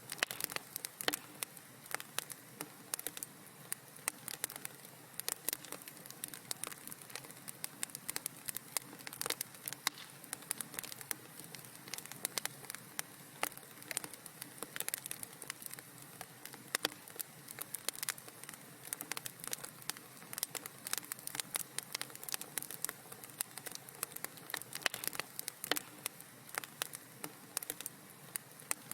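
Fire crackling in a fireplace: dense, irregular small pops and snaps over a soft steady hiss.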